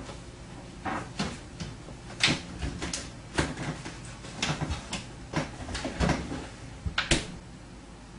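Refrigerator door and shelves being handled: a series of a dozen or so sharp knocks and clatters, the loudest near the end, over a low steady hum.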